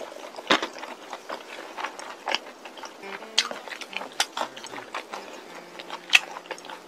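Crispy coating of Goobne Gochu Basasak fried chicken crunching as it is bitten and chewed close to the microphone: sharp, irregular crunches about once a second, the loudest about six seconds in.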